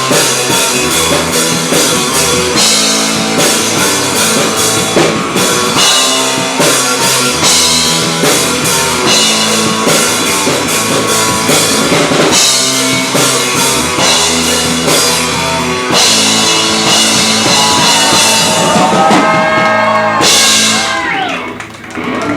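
A rock band playing live: a drum kit with cymbals under guitars, closing the song with a final loud crash about 20 seconds in that rings out as it ends.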